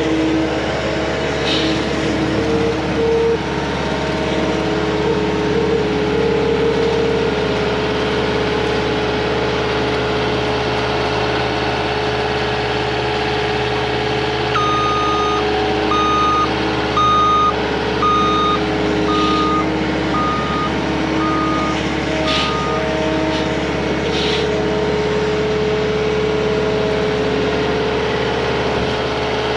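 CAT 259D compact track loader's diesel engine running steadily; about halfway through, its backup alarm beeps about eight times, roughly once a second, as the machine reverses.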